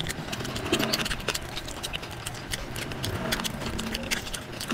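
Wet chewing, lip-smacking and squelching of a person eating meat curry and rice with his hands, sped up to triple speed, so the smacks and clicks come in a rapid, dense run.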